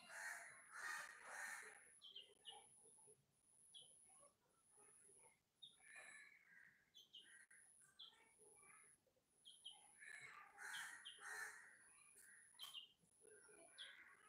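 Faint bird chirps and short calls, coming in louder clusters in the first two seconds and again about two-thirds of the way through. Behind them, a thin high-pitched tone pulses on and off.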